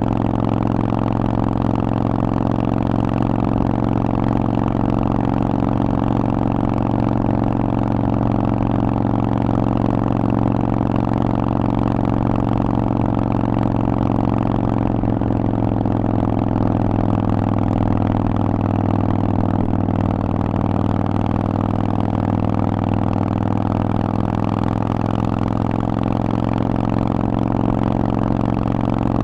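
Harley-Davidson Forty-Eight's V-twin engine running through a Vance & Hines exhaust at fairly steady revs, with a slight change in pitch about halfway through.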